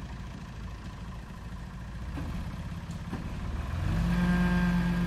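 Toy backhoe running with a steady engine rumble that grows louder and takes on a stronger pitch about four seconds in.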